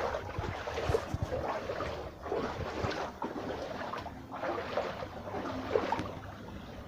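Floodwater in a street sloshing and splashing in irregular surges, with wind buffeting the microphone and a few low thumps.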